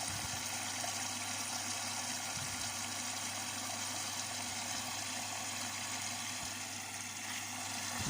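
Front-loading washing machine filling with water through its inlet: a steady rush of water with a steady low hum underneath.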